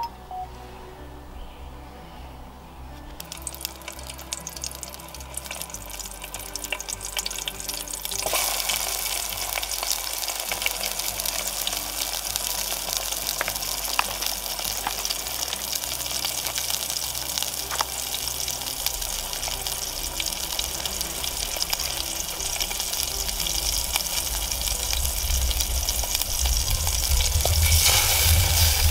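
Food sizzling and hissing in a pan on a Trangia 27 spirit stove, the hiss coming in faintly and jumping louder about eight seconds in, then slowly growing, with a few light clicks. Background music plays underneath.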